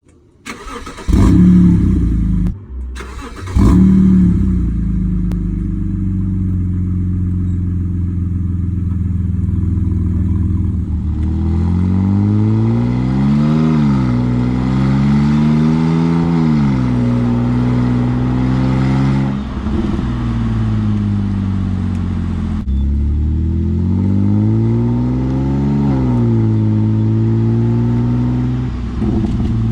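BMW 528i engine heard through an open exhaust cutout, the straight-through exhaust sound it is fitted for. It flares loudly twice in the first few seconds, settles into a steady idle, then is revved up and down several times in the second half.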